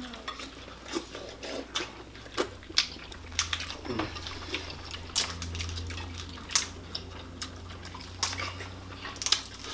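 Table eating sounds from a seafood boil: scattered sharp clicks and clinks of utensils, plates and crab shells, with a faint low hum through the middle seconds.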